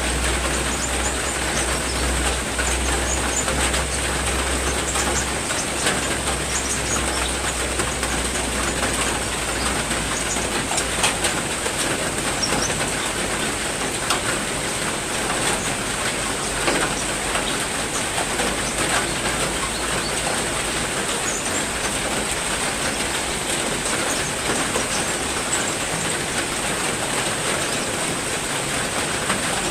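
Heavy rain falling steadily, a dense even hiss, with a few faint short bird chirps and a thin steady high tone above it.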